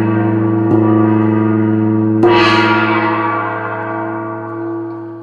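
A deep, bell-like chord rings. It is struck again just under a second in and again a little over two seconds in, then slowly dies away.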